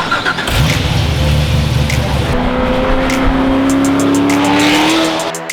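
Vehicle engine running hard, its pitch rising slowly and steadily over a couple of seconds, mixed with music; it cuts off abruptly near the end.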